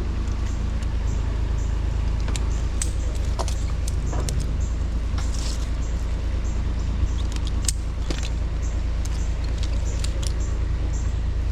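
Strong wind buffeting the microphone as a steady low rumble, with scattered light clicks and clinks over it.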